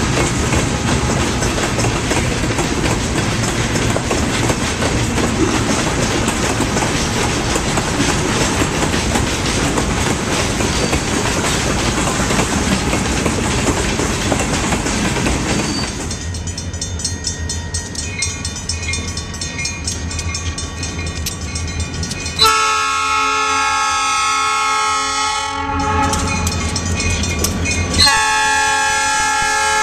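Wisconsin Southern diesel freight locomotives. A broad steady rumble gives way to the low hum of their diesel engines, then the multi-chime air horn sounds two long blasts, the second starting near the end.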